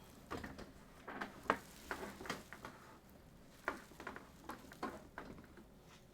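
Handling noise from setting up a keyboard stand and its strap: an irregular run of short clicks and knocks with brief scraping rustles between them.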